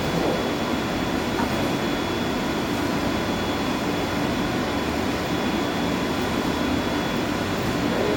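Steady, unchanging drone of boiler-house machinery running, with a thin high whine held throughout.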